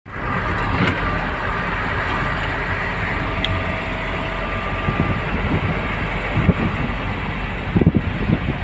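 Steady engine and road noise of a moving vehicle, with a few short low thumps near the end.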